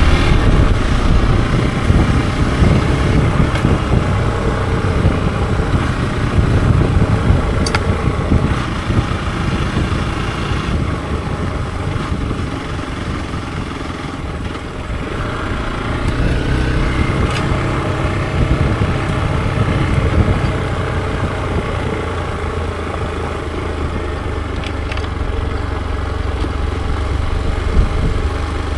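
Hero XPulse 200 4V's single-cylinder engine running steadily. It eases off somewhat between about ten and fifteen seconds in, then picks up again.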